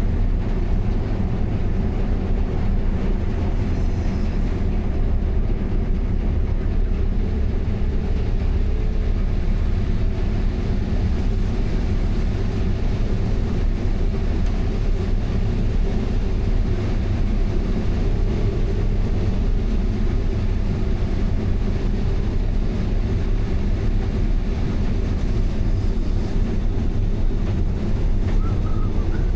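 Diesel engine of a large harvest machine running steadily, a constant low drone with no change in pace.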